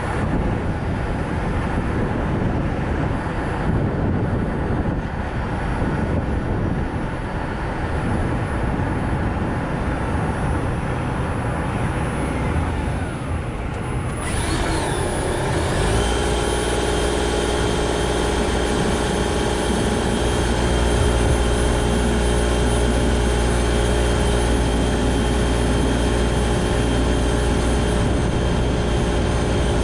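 Traffic noise around a car driving on a road: tyre and road rumble for the first half, then, about halfway through, a steady engine hum with several fixed tones.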